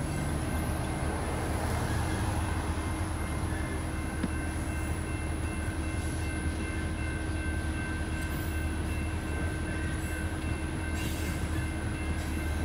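Freight train cars rolling past at trackside: a steady low rumble of wheels on rail, with a few thin, steady high-pitched tones from the wheels over it.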